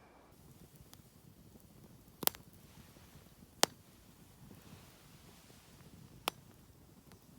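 Three short, sharp clicks over a faint low background rumble: two about a second and a half apart, then the third about two and a half seconds later.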